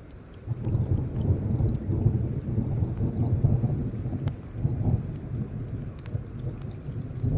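Rolling thunder: a low rumble sets in about half a second in and rolls on, rising and falling, over light rain with scattered faint drop ticks.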